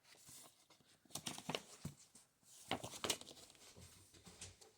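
Faint taps and rustles of a book being handled, its paper pages and cover touching in a few short clusters.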